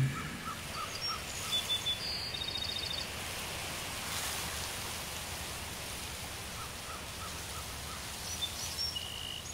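Nature ambience: a steady soft hiss with birds chirping. A run of short chirps and a high trill comes about a second and a half in, and again from about seven seconds in.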